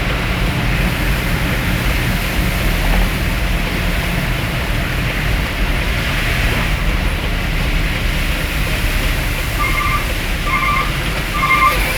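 Heavy rain over the steady rumble of a moving vehicle. Near the end, a string of short beeps, about one a second.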